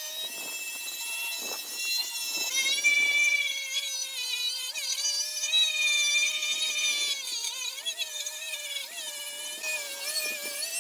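High-pitched whine of a power tool's motor running, its pitch wavering and dipping slightly as it is loaded, with a few light knocks.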